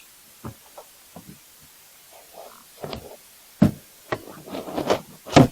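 Irregular knocks and clunks of gear being handled and moved about, a few light taps at first, then a busier run of thuds with two louder knocks, one past halfway and one near the end.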